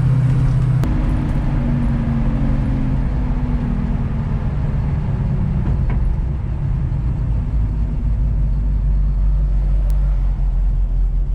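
A 1967 Mustang's 331 stroker V8 heard from inside the car while driving. The engine note changes suddenly about a second in, then the revs fall away over the next few seconds, leaving a steady low rumble as the car slows.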